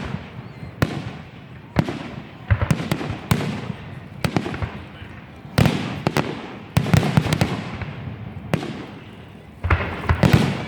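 A fireworks display: a rapid series of aerial shell bursts, sharp bangs each followed by a rolling rumble, with several close together near the end.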